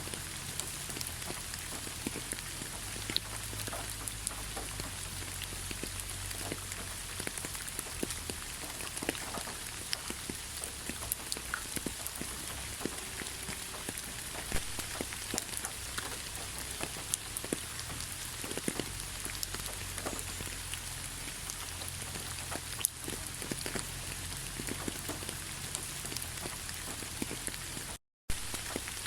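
Steady rainfall, with many individual raindrops making sharp little taps over an even hiss. The sound cuts out completely for a split second near the end.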